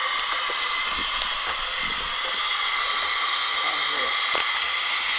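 Steady hissing rush from a live-steam miniature locomotive in steam, with a few light clicks.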